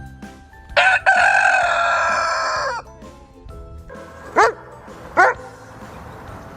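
A rooster crowing once, a long call of about two seconds, followed by two short sharp calls, over soft background music.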